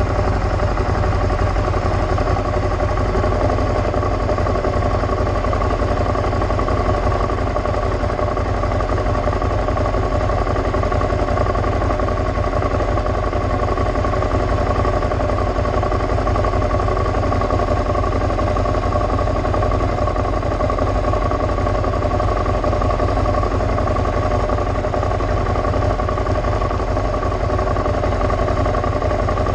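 Motorcycle engine idling steadily at a constant speed, with no revving or stalling.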